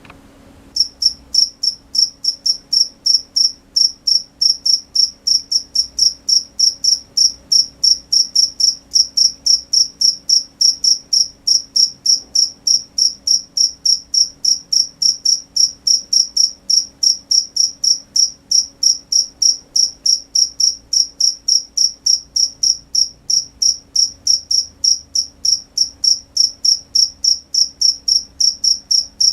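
A cricket chirping in a steady, even rhythm of about three to four high-pitched chirps a second, starting about a second in.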